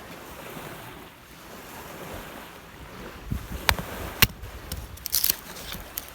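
Rough waves breaking on the Lake Biwa shore with a steady wash of wind, wind buffeting the microphone. A few sharp clicks or knocks sound close by about halfway through.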